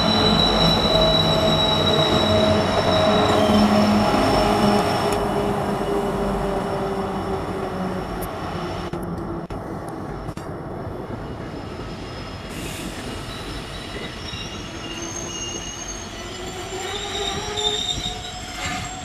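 A passenger train hauled by twin diesel locomotives passes close by, with engine drone and rolling noise. It then draws away and fades steadily, with high wheel squeal as the carriages take a curve.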